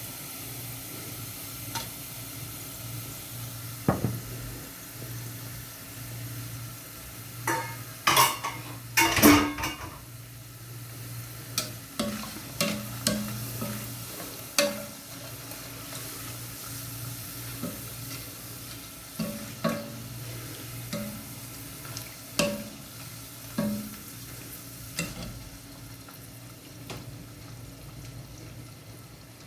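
Food sizzling as it fries in oil in a pan, with a utensil stirring and clacking against the pan. A burst of loud clacks comes about eight to nine seconds in, and scattered knocks follow through the rest.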